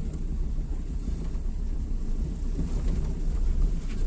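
Car moving along a rough road, heard from inside: a steady low rumble of engine and tyres.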